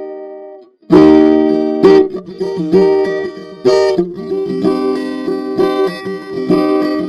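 Acoustic guitar playing an instrumental passage with no singing: a chord rings out and fades to a brief gap just under a second in, then a hard strummed chord starts a steady run of strummed and picked chords.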